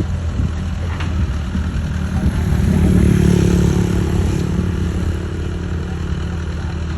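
Mini excavator's engine running steadily, rising and getting louder for about two seconds midway, then settling back.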